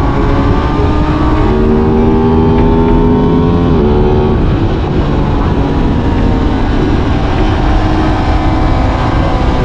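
Aprilia RS 660's parallel-twin engine riding along at speed under heavy wind rumble. Its pitch climbs slowly, then drops sharply about four seconds in and settles steady.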